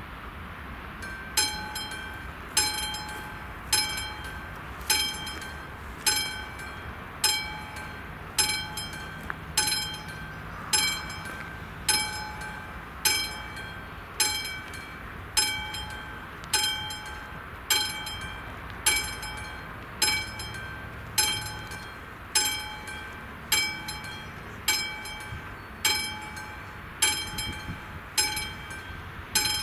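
Level-crossing warning bell on an AŽD 71 crossing signal, ringing single strikes about once a second, each one ringing briefly as it fades. A low steady rumble sits underneath.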